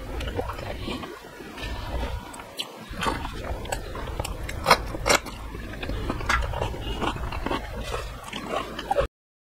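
Close-up eating sounds: chewing and mouth noises as a mouthful of rice and curry is eaten by hand, with a couple of crisp crunches about five seconds in, from biting into a raw green chili. The sound cuts off suddenly near the end.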